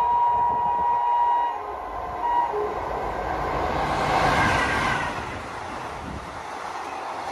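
WAP-4 electric locomotive's horn sounding one long high note, then a short toot, as the express comes through the station at speed. The rush of the locomotive passing close swells about four seconds in, then the coaches run by with a steady rumble.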